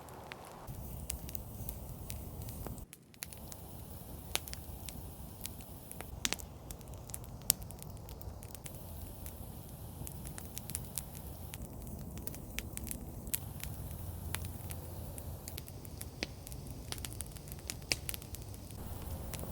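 Campfire crackling, with scattered sharp pops and snaps over a low steady rumble. The sound drops out briefly about three seconds in.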